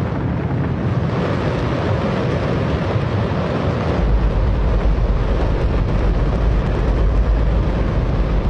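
Hydrogen-oxygen rocket engine firing on a test stand: a loud, steady roar, its deep rumble growing much stronger about four seconds in.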